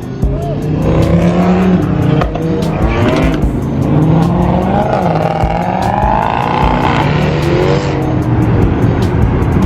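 Car engine held at high revs with tires squealing in a wavering pitch, as in a burnout.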